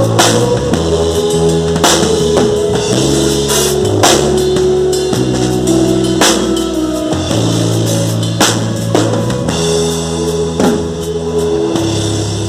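Band playing an instrumental passage: a drum kit with a cymbal crash about every two seconds over held chords and bass notes that change every second or two.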